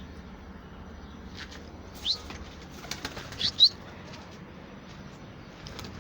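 Pigeons moving about: a brief burst of wing flapping around three seconds in, with a few short, high, rising chirps about two and three and a half seconds in.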